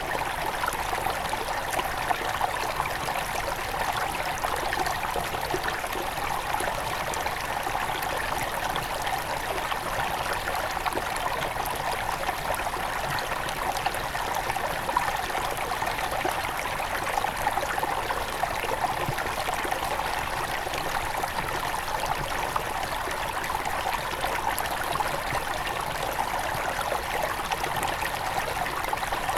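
Water of a small forest river near its source flowing steadily: an even rush of water full of tiny splashes, unchanging throughout.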